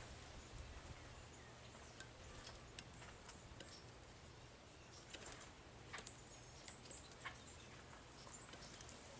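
Faint, irregular clicks and taps of birds pecking and shuffling at a seed feeder, about a dozen sharp ticks spread unevenly over a quiet hiss.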